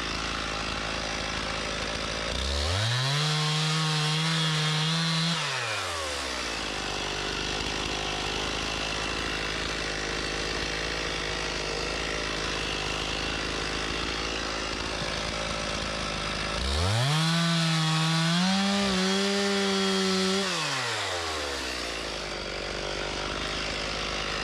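Stihl MS391 two-stroke chainsaw idling, revved up to full speed twice for about three seconds each, its pitch sagging slightly under load in the second run before dropping back to idle.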